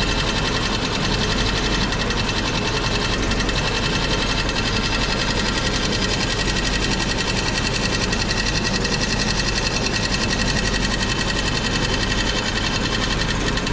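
Honda Civic's D16 four-cylinder engine idling steadily, with a fast, even mechanical ticking running through it.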